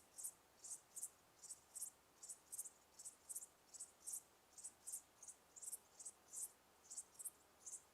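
Cricket chirping in a steady rhythm of short high-pitched chirps, often in pairs, a few each second, over a faint hiss.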